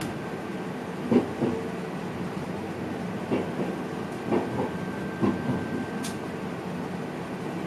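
Running noise of an NS VIRM double-deck electric train heard in the driver's cab, with a series of irregular knocks as the wheels pass over the track. A thin steady tone runs beneath it and stops about six seconds in, where a brief hiss is heard.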